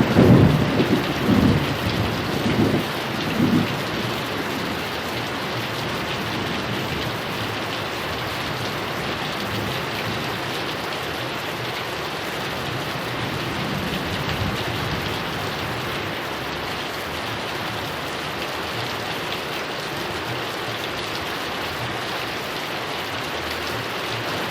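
Heavy rain falling steadily, with a low rumble of thunder that dies away over the first few seconds.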